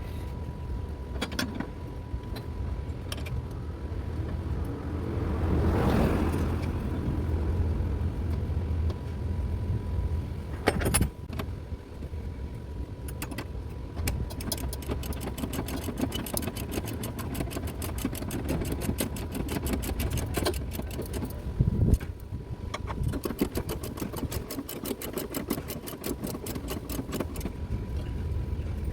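Hand ratchet clicking in two long rapid runs, about halfway in and again near the end, as bolts are turned in. A few metal tool clinks and knocks sound over a steady low hum.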